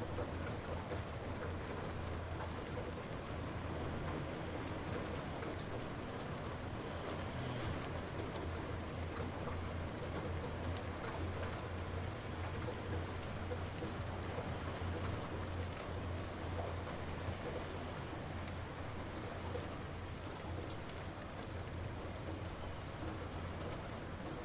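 Light rain falling steadily, with scattered individual drops pattering on surfaces and a steady low hum underneath.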